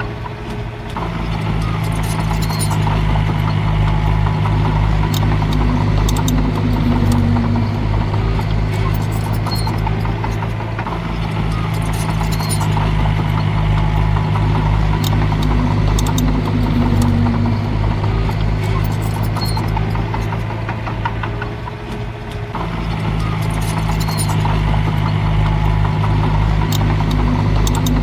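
Shantui DH17C3 bulldozer's diesel engine running steadily under load. The drone eases off briefly about a second in and again near 22 s, with scattered sharp clicks over it.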